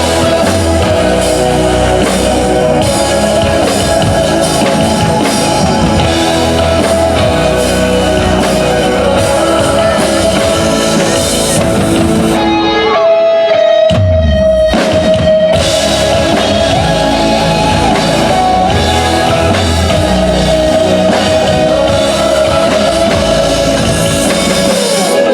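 Loud pop-rock band music with drums and guitar. About halfway through, the drums and bass drop out for roughly two seconds, leaving a single held tone, then come back in.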